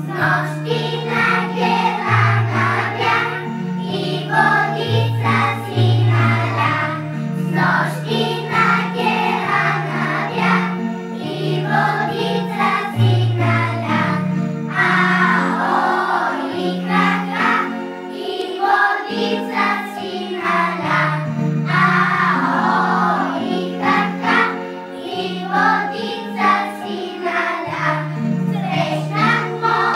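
A group of children singing with instrumental accompaniment that has a steady bass line and a regular beat, typical of a Bulgarian folk song.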